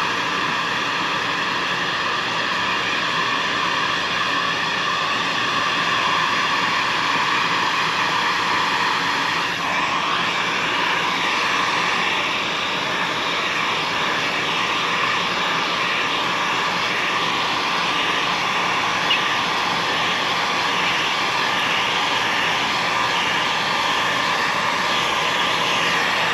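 A steady, loud whirring from a motor or blower, with several constant tones over a rushing noise.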